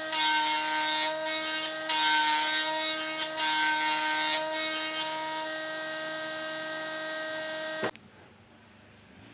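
Electric power tool motor running with a steady whine, biting into wood three times in the first few seconds with loud rasping surges, then stopping suddenly near the end.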